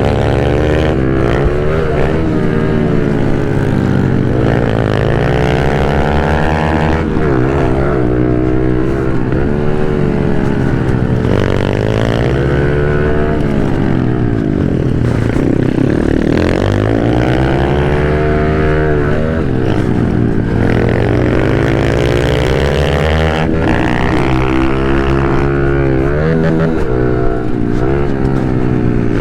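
Honda CRF110 pit bike's small single-cylinder four-stroke engine, ridden hard around a track, revving up and dropping back over and over as the rider accelerates and shifts. The pitch climbs and falls every second or two.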